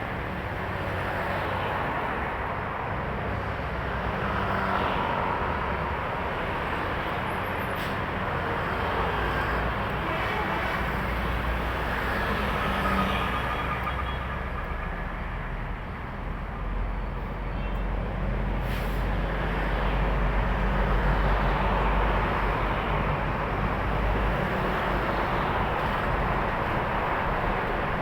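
Heavy highway traffic of trucks and cars passing, a continuous wash of engine and tyre noise. A deep truck engine rumble grows stronger from about halfway, and a couple of short sharp sounds stand out, near 8 and 19 seconds in.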